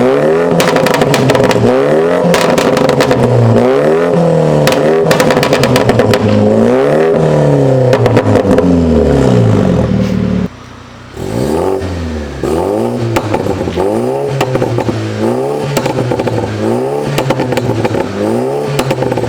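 BMW G30 5 Series engine being revved repeatedly through an aftermarket downpipe and valved catback exhaust, the pitch rising and falling about once every second or so, with crackling pops on the overrun. The revving breaks off briefly about ten seconds in, then carries on a little quieter.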